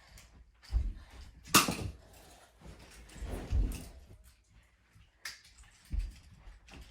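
Scattered knocks and thumps from a foam-dart blaster duel, with one sharp clack about one and a half seconds in.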